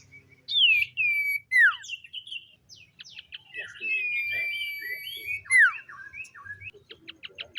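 Common iora singing: sharp falling whistles and chattering notes, a long level whistle held for over a second in the middle, and a quick run of short notes near the end.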